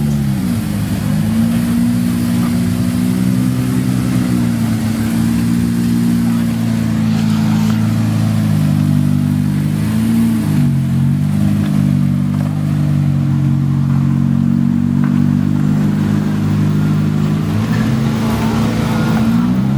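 Toyota AE86 Corolla engine running as the car drives slowly past, a loud, steady engine note. The note drops and comes back up briefly about halfway through and again near the end.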